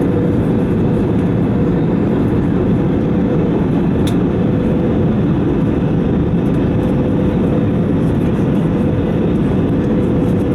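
Steady engine and airflow noise inside the cabin of an Airbus A320 on final approach, a constant low rush with a faint steady hum, and a brief click about four seconds in.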